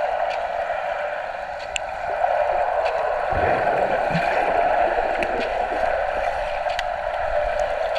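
Wave pool water sloshing and churning in a steady wash, muffled through a GoPro camera's waterproof housing. A deeper surge of water comes in about three seconds in.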